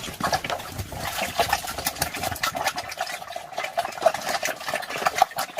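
Pigs eating: a rapid, irregular run of wet chewing and smacking.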